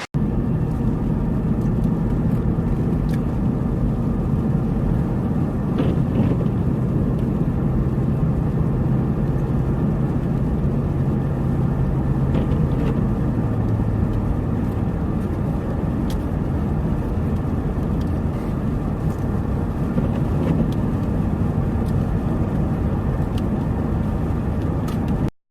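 Steady low rumble of a car in motion, with a few faint ticks now and then.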